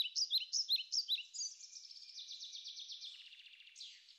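Bird song: a quick run of short, high, downslurred chirps, about five a second. It turns into a rapid trill and ends with one falling note near the end.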